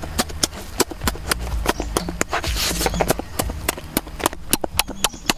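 Close-up wet eating sounds: chewing and lip-smacking on mouthfuls of crumbly food, a stream of sharp irregular clicks several a second. A low steady hum runs underneath.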